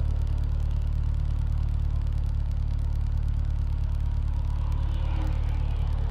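Westfield sports car's engine idling steadily at a standstill, an even low rumble with no revving.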